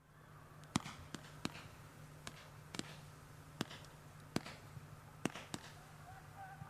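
Firework bangs: about ten sharp, separate cracks at irregular intervals, roughly one or two a second, over a faint low hum.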